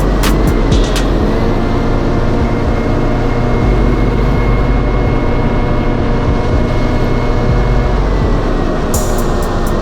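Honda Dio AF18 scooter's 50 cc two-stroke engine running steadily at an even pitch, with a thin steady whine over it. Sharp clicks come in the first second and again near the end.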